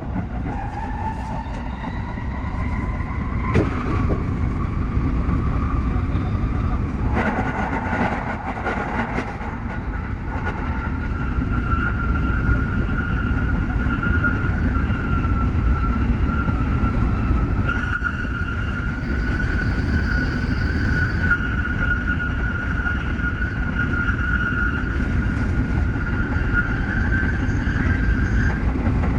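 Tsukuba Express TX-3000 series electric train running on the line, with a steady rumble from the running gear and a high electric motor whine that rises a little over the first few seconds and then holds steady. A few sharp knocks about four and seven to nine seconds in.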